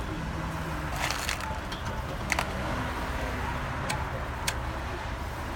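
Pickup truck fire burning with a steady low rumble, broken by sharp pops and cracks: a quick cluster about a second in, then single ones near two and a half, four and four and a half seconds.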